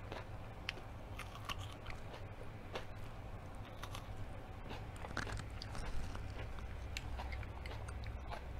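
A person biting into and chewing food close to the microphone: many short, irregular mouth clicks over a low steady hum.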